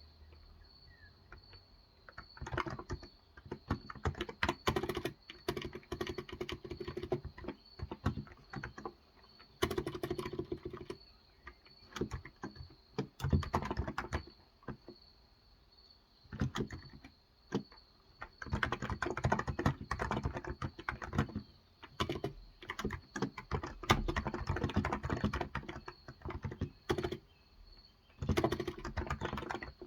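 Typing on a Cox Endeavour electro-capacitive keyboard with 35 g switches: runs of quick keystrokes broken by short pauses. A faint steady high-pitched tone runs underneath.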